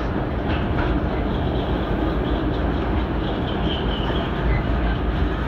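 Train running on the rails: a steady rumble.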